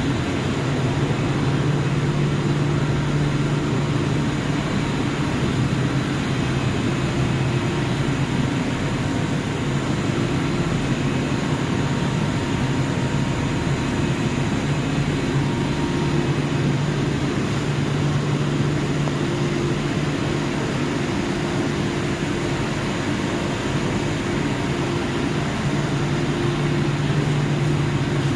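Hot oil (thermal oil) boiler plant running: a loud, steady machine drone with a constant low hum and no change in speed.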